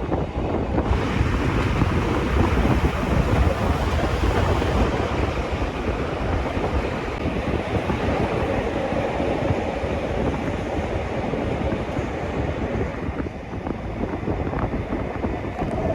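Steady running noise of a Rhaetian Railway train in motion, a low rumble mixed with rushing wind. The sound grows brighter and fuller about a second in.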